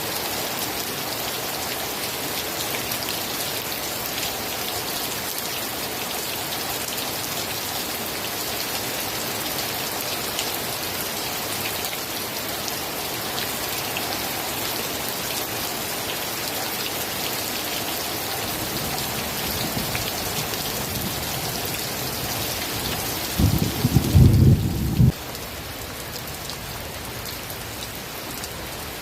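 Steady heavy rain pattering on a surface, with a short, loud, low rumble of thunder lasting about a second and a half near the end. After the rumble the rain is a little softer.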